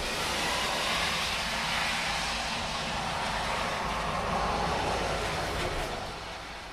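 A vehicle passing on a rain-soaked road in heavy rain: the hiss of its tyres on the wet surface swells over the rain, holds for several seconds and fades near the end.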